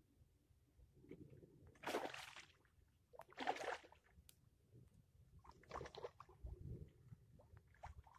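A few short, faint splashes and sloshes of water from a hooked pike thrashing as it is played in.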